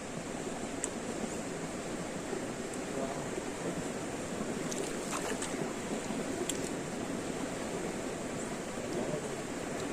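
Steady rushing of flowing stream water, with a few faint clicks.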